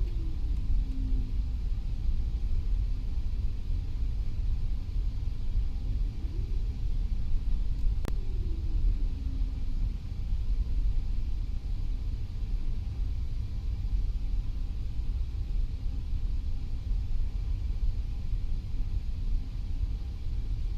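Airbus A320 on the ground just after landing: a steady low rumble of the airframe and engines rolling along the runway. A few short tones slide down or up in pitch, and a single sharp click comes about eight seconds in.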